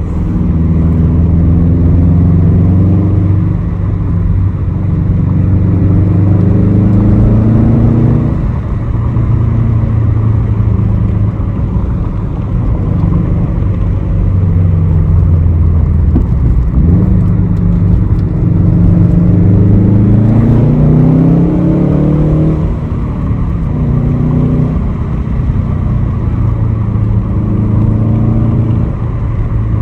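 2006 Subaru STI's turbocharged flat-four running through a Tomei aftermarket exhaust under acceleration. Revs climb from the start and again about halfway through, each climb ending in a sudden drop at an upshift. Between the climbs the engine holds steadier.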